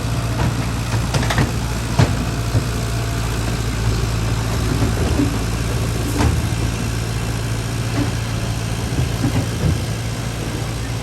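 Heavy diesel engine idling with a steady low hum, with a few short metallic knocks over it, the sharpest about two seconds in and about six seconds in.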